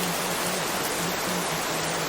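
Steady rain sound, an even hiss with no single drops standing out, over short low tones that come and go a few times a second.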